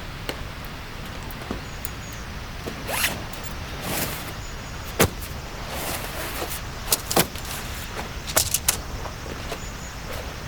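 A zipper pulled in short rasping strokes, with several sharp clicks and knocks of gear being handled, over a steady hiss of rain.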